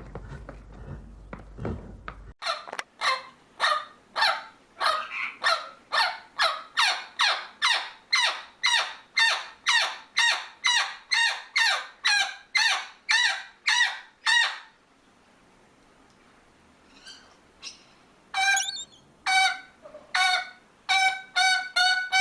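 A bird calling over and over, about two calls a second, each a short call sliding down in pitch, for some twelve seconds. After a pause come several shorter calls held at a steadier pitch.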